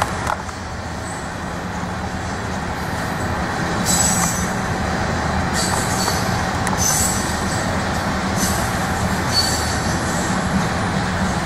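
Freight train of new oil tank cars rolling steadily past at a grade crossing, with a continuous rumble of wheels on rail and brief high wheel squeals every second or two.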